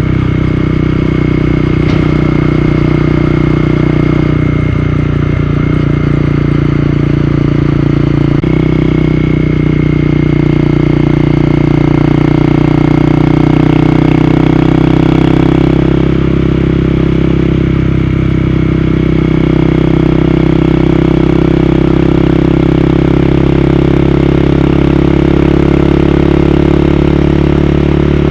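Honda CB250R single-cylinder motorcycle engine running at a steady speed under way. The engine note shifts abruptly about eight seconds in and again about sixteen seconds in.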